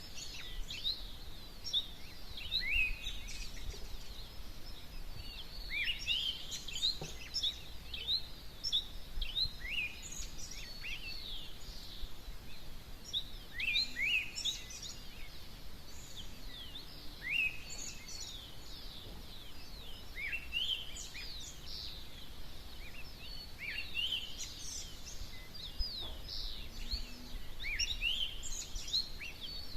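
Several birds chirping and singing at dawn, many short high chirps overlapping throughout, over a low steady rumble.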